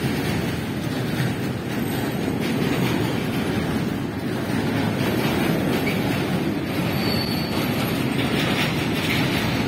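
Freight train of loaded flat wagons rolling past at steady speed: a continuous rumble of steel wheels on the rails, with a brief faint high squeal about seven seconds in.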